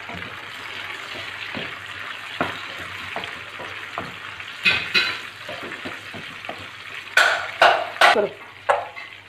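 Onions and freshly added tomatoes sizzling in hot oil in a frying pan, stirred with a wooden spatula. A steady sizzle runs throughout, and from about halfway through the spatula scrapes and knocks against the pan several times.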